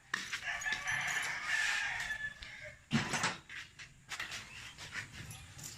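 A rooster crowing once, a call of about two seconds, followed about three seconds in by a sharp knock and then a few light clicks.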